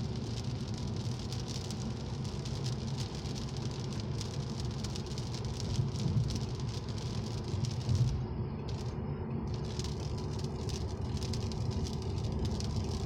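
Rain pattering in many small ticks over a steady low vehicle drone. The patter drops out briefly about eight seconds in.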